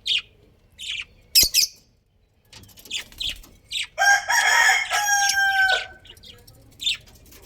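A rooster crows once, a pitched call of about two seconds that starts about four seconds in and ends on a held, level note. Short high bird chirps come before it.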